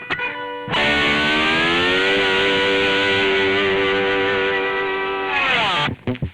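Intro music: a distorted electric guitar holds one long note, which slides down in pitch near the end and cuts off.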